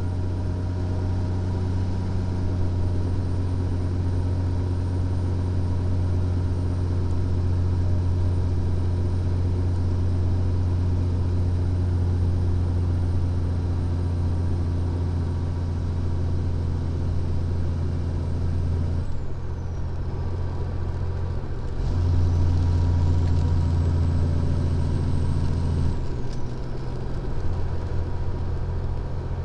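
Diesel engine of a Freightliner Columbia semi truck heard from inside the cab as it runs steadily down a steep grade: a low, even drone with a faint high whine above it. About two-thirds of the way through, the drone and the whine drop away for about three seconds and then come back, and the engine note changes again shortly after.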